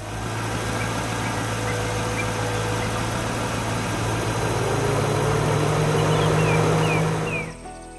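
Engine running with a steady hum, its pitch stepping up a little about halfway through, then cutting off near the end.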